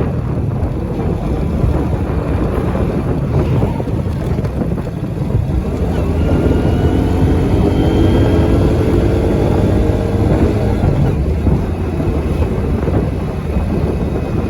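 Steady wind rumble on the microphone mixed with passing road traffic. From about six seconds in, a vehicle engine passes with its pitch rising slightly, then fades out around eleven seconds.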